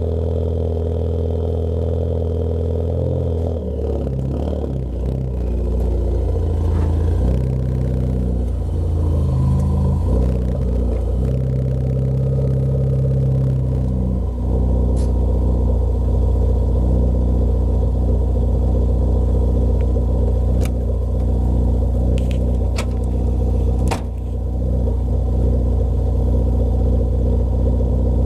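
A 2013 Ford Focus ST's turbocharged 2.0-litre four-cylinder with a Roush cat-back exhaust, driving. The engine note changes in steps over the first fourteen seconds or so, then settles into a steady low drone while cruising, with a few short sharp clicks in the second half.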